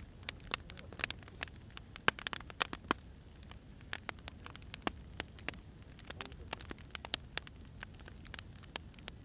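Burning firewood crackling: irregular sharp pops and snaps over a soft, steady low rush of the fire, busier in the first three seconds and sparser after.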